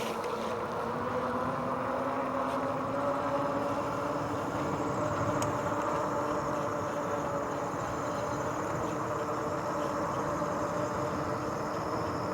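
Electric bike's hub motor whining, its pitch rising over the first few seconds as the bike picks up speed and then holding steady, over tyre and wind noise.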